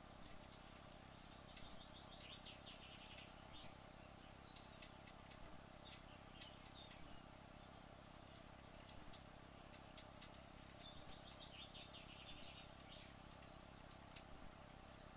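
Near silence: a faint steady background hum, with two short faint trills of high chirps and scattered faint ticks.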